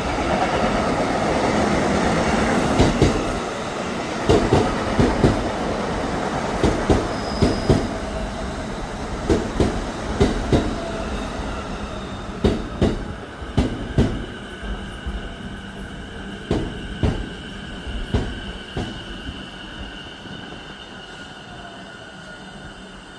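JR East E233-6000 series electric train pulling into the station and slowing: a running rumble that fades steadily, wheels clacking over rail joints and points at a slowing pace, and a steady high squeal in the second half.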